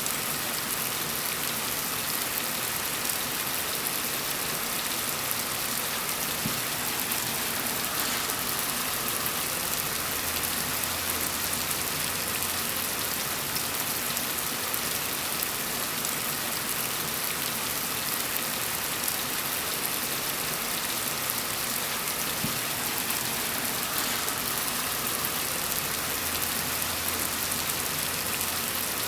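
Gentle rain falling steadily, an even, unbroken patter with no let-up.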